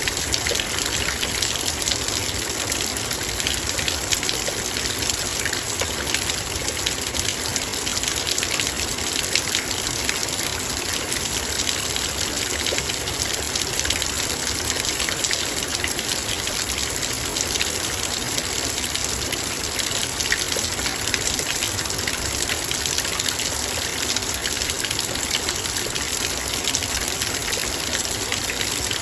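Heavy rain falling steadily on a metal bowl: a dense, even patter of countless fine drop hits over a constant hiss of rain.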